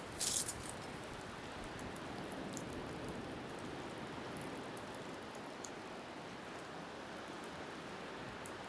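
Beach bonfire crackling, with scattered small pops and one brief louder crackle just after the start, over a steady wash of surf and wind.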